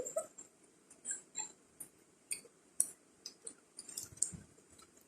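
Faint, scattered small clicks and crackles, about a dozen spread over several seconds, with a soft low thump about four seconds in.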